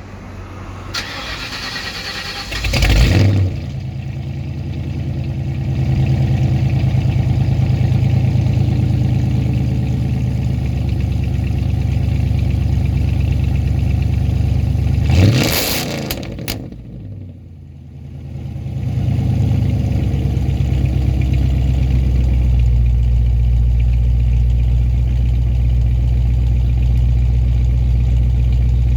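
1994 Ford Mustang GT's 5.0-litre V8 cold-started: the starter cranks for about two seconds, then the engine catches with a sharp flare and settles into a steady fast idle. About halfway through it is revved once, the sound drops away for a couple of seconds, then it returns to a steady idle.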